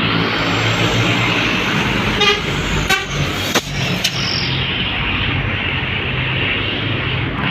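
Road traffic passing, with a heavy vehicle's engine running low and steady, and two short horn toots a little over two seconds in.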